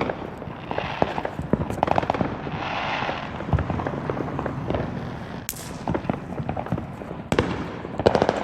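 Fireworks and firecrackers crackling and popping: many sharp cracks at irregular intervals, with a louder crack near the end.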